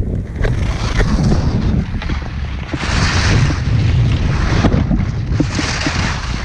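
Wind buffeting the microphone: a steady low rumble, with two stretches of louder hiss, one about three seconds in and one near the end.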